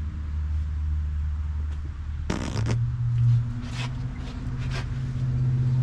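Rustling and clinking of engine parts being handled, with one louder clatter about two and a half seconds in. Underneath is a steady low hum that steps up in pitch at the same moment.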